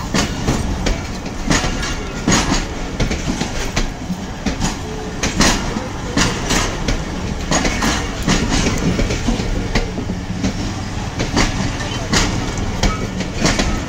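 Pakistan Railways passenger coaches rolling past on departure: a steady low rumble with the wheels clacking over rail joints in an uneven rhythm, about one or two clacks a second.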